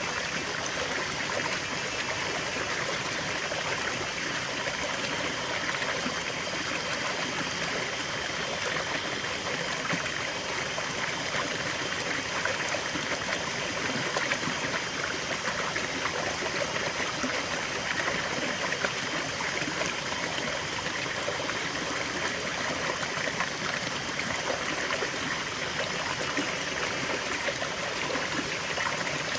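Small stream flowing steadily, water trickling and burbling over stones in an even, unbroken wash.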